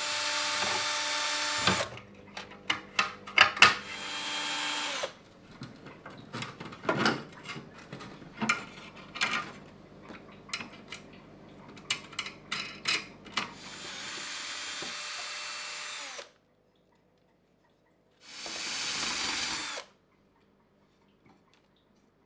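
Power drill running in four short bursts of about one to two seconds each, with sharp clicks and knocks in between.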